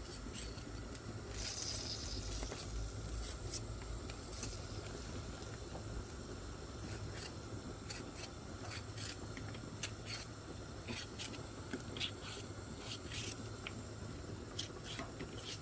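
Kitchen handling sounds: irregular light clicks and scrapes over a steady low hum, with a brief hiss about two seconds in.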